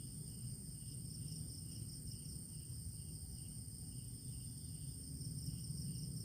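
Night insects such as crickets calling: a steady high trill with a pulsing chirp over it, above a low steady rumble.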